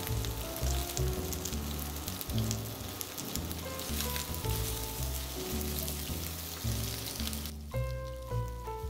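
Chicken pieces, onion and dried jujubes sizzling and crackling in hot oil in a nonstick frying pan while being stir-fried. The sizzle cuts off sharply about a second before the end. Background music plays throughout.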